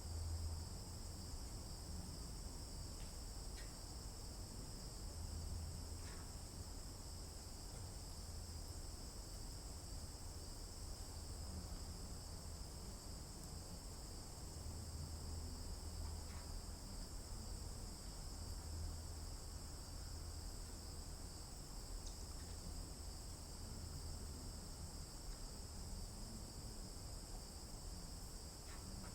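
Steady, continuous chorus of crickets or similar insects, sitting in two high shrill bands. Soft low thuds come and go under it.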